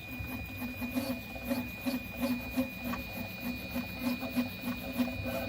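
Prusa i3 MK3 3D printer printing: its stepper motors drive the head in quick back-and-forth moves, about two to three pulses a second over a steady high whine. This is the weird noise the owner hears on movement while printing perimeters; its cause is unknown.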